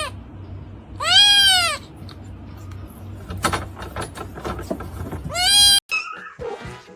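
A cat meowing loudly: two long drawn-out calls that rise and fall in pitch, about a second in and again near the end, with a short call at the start and some rustling and clicks between.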